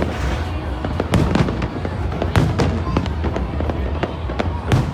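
Aerial fireworks exploding in quick succession, a string of sharp bangs and crackles over a steady low rumble, with music playing underneath.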